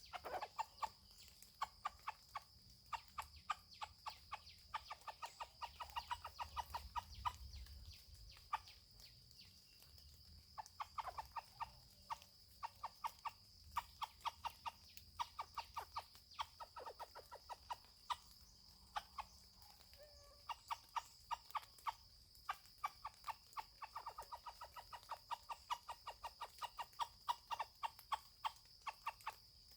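Junglefowl clucking in long runs of rapid, sharp clucks, broken by short pauses, over a steady high-pitched drone.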